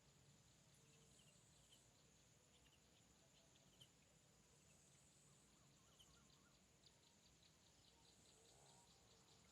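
Faint rural ambience dominated by a steady, high-pitched insect trill, with scattered short chirps and, in the last few seconds, a quick run of evenly spaced chirps.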